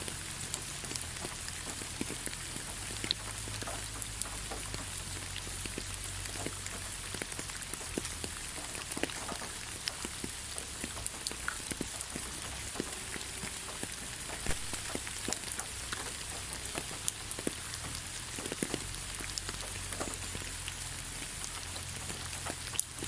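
Steady rain falling, a constant hiss with many separate drops ticking and pattering on surfaces, no thunder.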